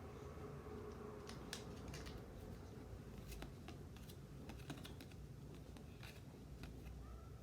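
Trading cards being flipped through by hand: faint, irregular clicks and taps of card stock, over a low steady background hum.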